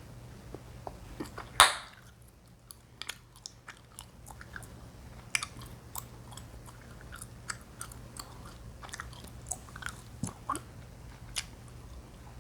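Chewing gum being chewed and popped close to the microphone: one loud pop about one and a half seconds in, then a string of smaller snaps and wet clicks.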